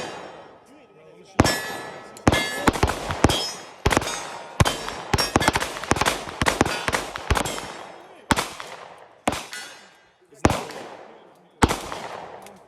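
Gunshots on a shooting range: a quick, irregular string of sharp shots that starts about a second and a half in, some shots close together and others spaced out, with a metallic ring of steel targets being hit.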